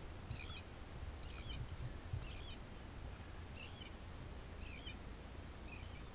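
A bird calling repeatedly: short chirping calls about once a second, over a low steady rumble.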